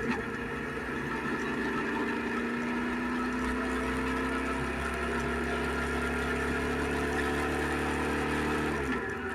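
Suzuki SV650X's 645 cc V-twin engine running under load, its pitch rising slowly and steadily for several seconds, then dropping sharply near the end.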